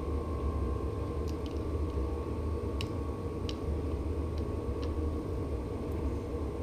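Scattered light clicks of small hand tools on handlebar clamp bolts, about seven in all, over a steady low hum.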